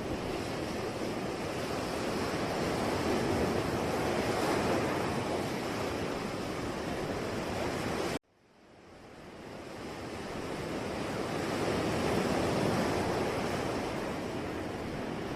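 Sea surf washing onto the shore in slow swells that build and ease. About eight seconds in, the sound cuts out abruptly and fades back in over a couple of seconds.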